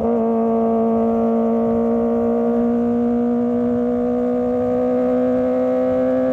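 Kawasaki ZX25R's 250 cc inline-four engine running at steady high revs under way, its pitch creeping slightly upward.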